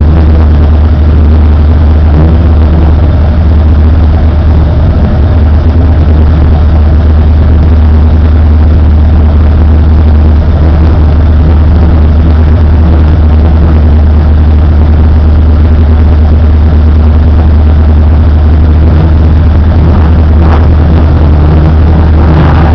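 Honda Integra Type-R race car engine idling steadily and loud, heard from inside the cabin.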